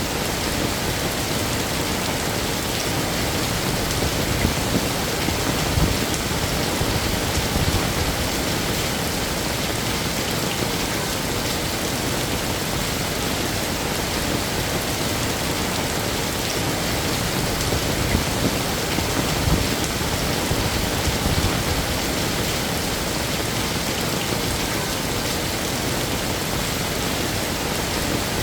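Heavy rain falling steadily, a dense even hiss, with a few brief louder spells a few seconds in and again about two-thirds of the way through.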